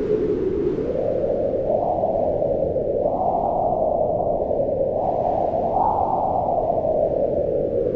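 Howling wind: a steady rush whose pitch swells up and falls back in slow waves, highest about three seconds in and again near six seconds.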